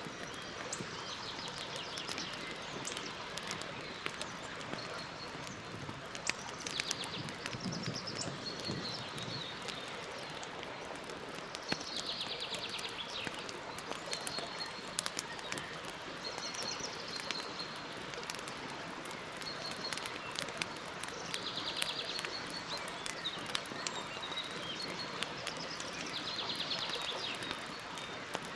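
Campfire crackling with scattered sharp pops over a steady hiss, while a songbird repeats a short rapid trill every few seconds, with brief chirps between.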